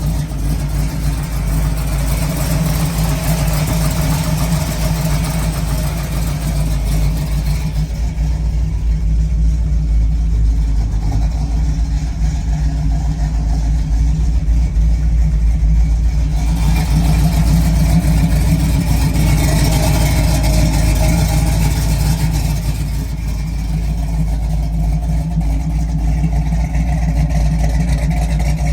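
Hot rod's 425 Buick Nailhead V8 running steadily, heard loud and close.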